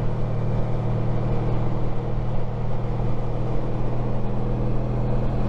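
Honda ST1300 Pan European's V4 engine running steadily at cruising speed, holding one even pitch, with wind and road noise over it.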